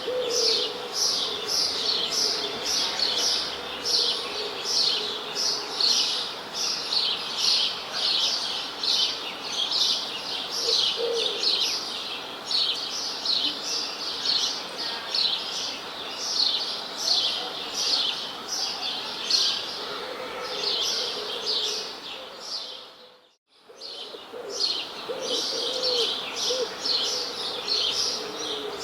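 A chorus of birds chirping: a dense, steady stream of quick, high, falling chirps, with some lower calls now and then. About two-thirds of the way through, the sound briefly fades almost to silence and then returns.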